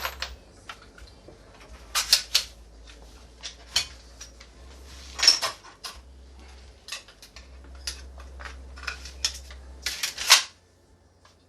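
Irregular knocks and metallic clinks of tools and wood being handled while building a wooden sink support frame, with louder knocks about two, five and ten seconds in.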